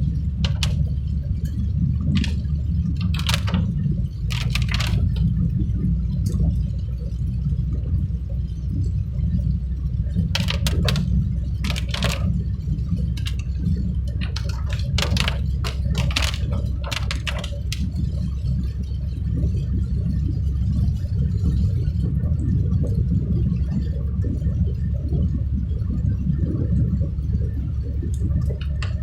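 Vehicle travelling on a rain-soaked road: a steady low rumble of road and driving noise, with short, sharp watery splashes and hisses coming now and then, mostly in the first half.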